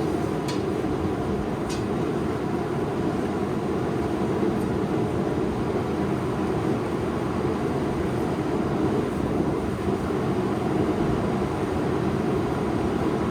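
Forge running with a steady, even roar, with a couple of faint clicks early on and no hammer blows.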